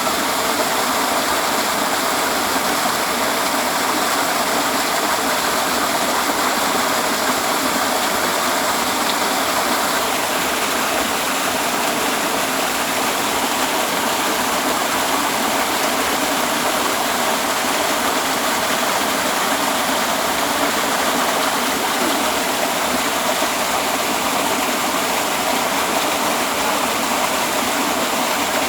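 Waterfall: the steady rush of falling water, an even noise that runs on without a break.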